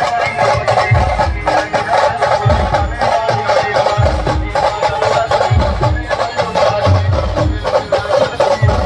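Live band playing an aarti tune: a loud, dense melody line over heavy drum beats and rapid percussion strokes.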